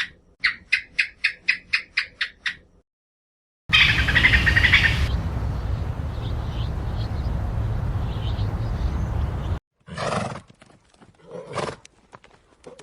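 A sequence of different animal calls. First comes a rapid run of short, high calls, about four or five a second, stopping near three seconds in. After a brief gap, a long, loud, low, rough call lasts about six seconds and is brightest at its start. A few scattered shorter calls follow near the end.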